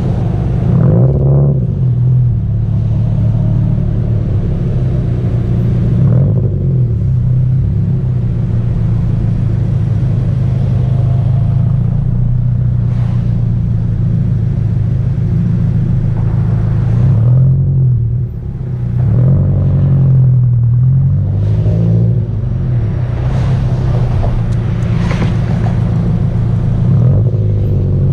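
Subaru Impreza GDB-E's turbocharged flat-four exhaust note while driving, the engine pitch rising under acceleration and dropping back at gear changes several times, over a steady road rumble.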